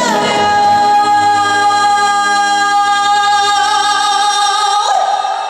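A female singer holding one long sung note live over the band's accompaniment, the note wavering into vibrato toward the end and breaking off with a short upward slide about five seconds in.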